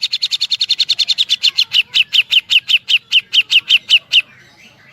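Grey-cheeked bulbul (cucak jenggot) giving a woodpecker-like rapid burst of short, downslurred notes. The notes slow from about ten a second to about five and grow louder, then stop about four seconds in.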